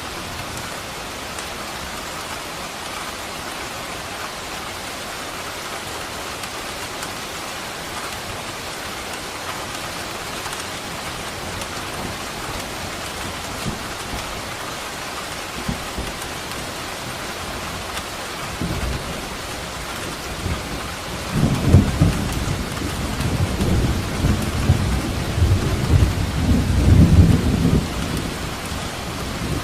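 Steady rain falling, with thunder rumbling in about two-thirds of the way through, loudest over the last third before easing near the end.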